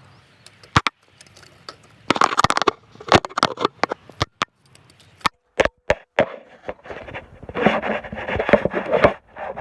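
Handling noise right at the phone's microphone: repeated sharp knocks and clicks with bursts of scraping and rubbing as the phone is wedged into position.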